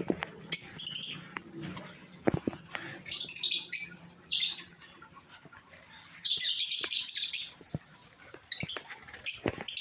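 A small flock of pet African lovebirds and cockatiels chirping in shrill, high bursts on and off, with a longer bout of chirping past the middle. A few sharp clicks are mixed in.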